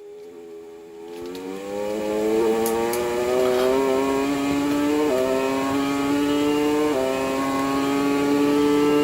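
Motorcycle engine accelerating through the gears. It fades in, rises steadily in pitch, and drops back at shifts about five and seven seconds in.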